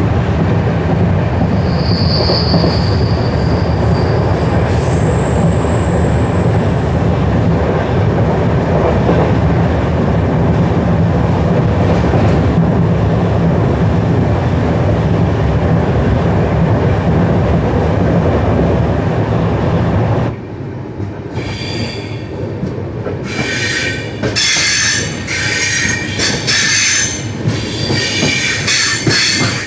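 Express train coaches running at speed: a steady rumble of wheels on the rails, with brief high squeals early on. About twenty seconds in, the rumble drops away and a run of high-pitched squeals follows as the train slows to a stop at a station.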